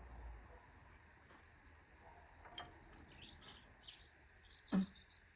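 Birds chirping faintly, with a couple of clicks and one sharp knock near the end.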